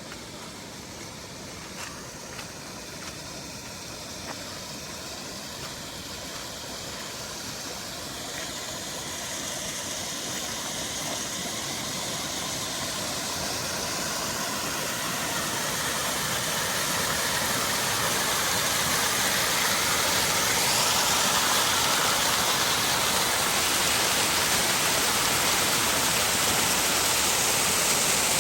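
Rushing water from heavy rain, a steady noise that grows steadily louder over about twenty seconds and then holds. A few faint clicks sound in the first few seconds.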